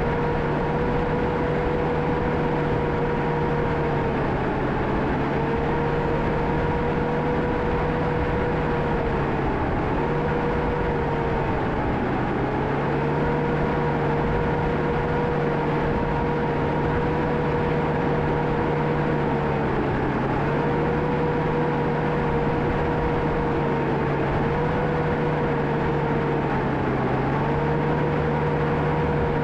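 John Deere 650K crawler dozer's diesel engine running steadily at working speed. Its pitch sags briefly about six times and recovers as the engine takes load while pushing dirt.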